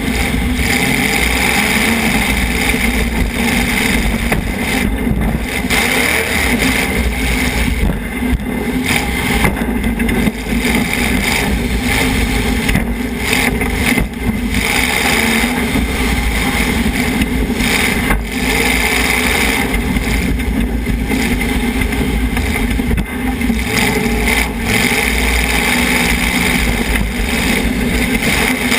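Demolition derby car's engine running hard, heard from inside the car: a loud, continuous engine noise with a few brief dips.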